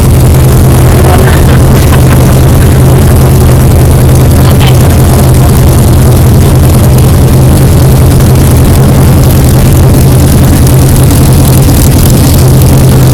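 1964 Corvette's V8 engine running steadily, heard from inside the car as a loud, even low drone.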